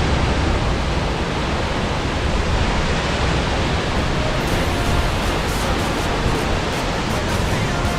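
Steady, loud rushing of Upper North Falls, water pouring down into its pool.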